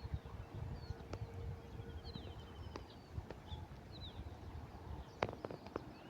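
Small birds chirping, with one rapid trill, over a low rumble; a few sharp clicks come near the end.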